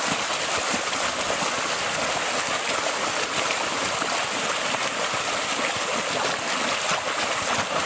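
Steady rushing and splashing of water churned up by several people kicking their feet.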